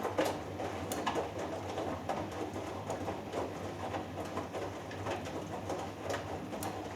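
Hoover Dynamic Next washing machine tumbling a wet load during the wash: water and laundry sloshing in the turning drum with an irregular gurgling swish about once or twice a second, over a steady motor hum. The drum stops turning right at the end.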